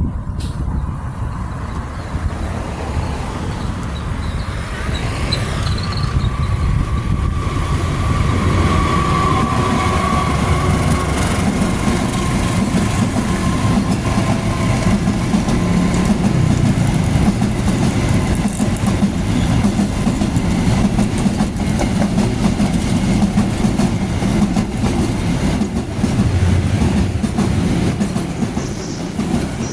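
Long-distance passenger train passing close by, a steady rumble with its wheels clattering over the rail joints in a continuous run of clicks.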